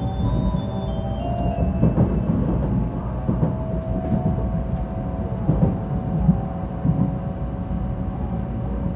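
Cabin sound of a 700-series Shinkansen car running at speed: a steady low rumble with a whine and irregular knocks from the running gear. The last notes of the onboard chime melody step downward and fade in the first second or so.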